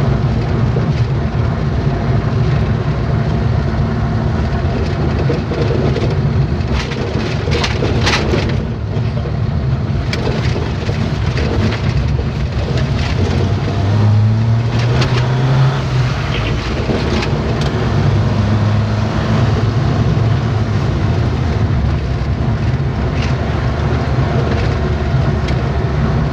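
Truck on the move: steady low engine rumble and road noise, with knocks and rattles from the road. The engine note climbs briefly about halfway through and again a few seconds later.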